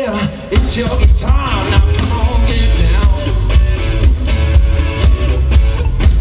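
Live rock band playing: a drum kit keeping a steady beat under a heavy electric bass and guitar, with a singer's voice over them for the first few seconds.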